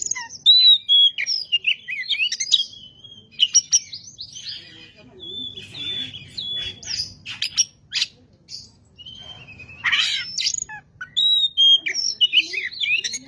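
Oriental magpie-robin singing continuously: varied clear whistles and quick trills, broken every few seconds by short harsh rasping notes.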